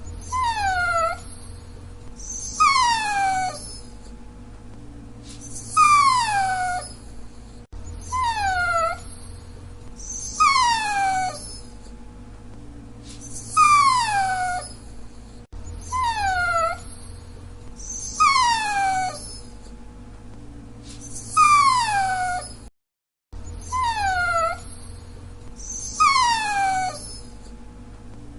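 Dachshund whining: a string of high-pitched whines, each sliding down in pitch, about one every two seconds.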